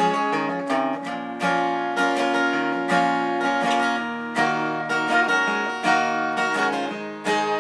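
Instrumental break of a country song: acoustic guitar strumming sustained chords, with no singing.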